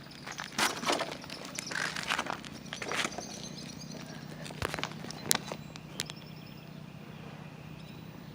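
Slow footsteps scuffing and knocking on debris, several uneven steps in the first six seconds, over a steady low hum.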